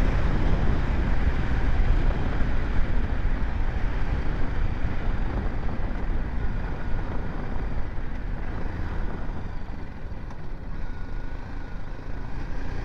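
BMW G 310 GS motorcycle on the move, with a steady rush of wind on the rider's microphone and the bike's running noise, easing slightly about ten seconds in.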